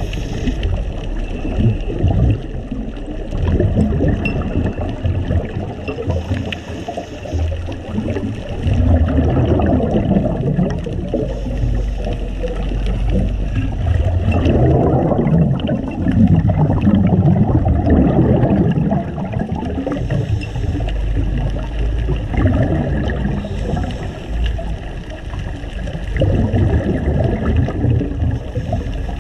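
Scuba diver's exhaled bubbles gurgling from the regulator, recorded underwater, in surges every few seconds, with a faint steady hum behind them.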